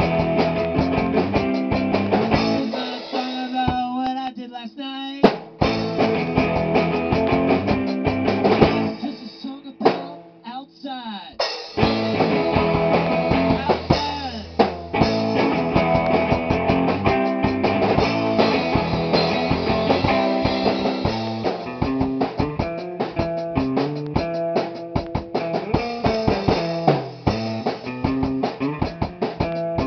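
Rock band rehearsing: drum kit, electric guitar and bass playing a song, with two short breaks where the drums and bass drop out before the full band comes back in.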